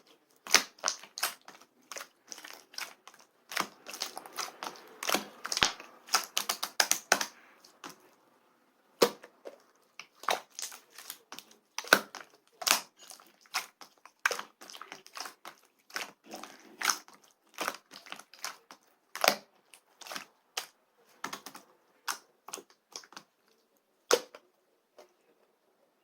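Opaque slime being pressed, folded and squeezed by hand, giving a long run of irregular sticky pops and clicks. They are densest at first, grow sparser, and die out near the end.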